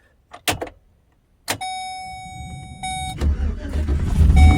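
Chevy Express van's V8 being started: a couple of clicks, a steady electronic warning tone, then about three seconds in the engine fires and settles into a low, steady rumble.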